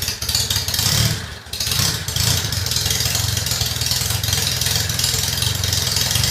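1948 Crosley COBRA 724 cc four-cylinder overhead-cam engine being cranked with the choke on, firing unevenly, then catching about two seconds in and settling into a steady run.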